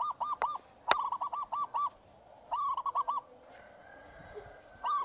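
A bird calling in bouts of quick, rapidly repeated arched notes, about six a second, several bouts in a row with short gaps. A single sharp click about a second in.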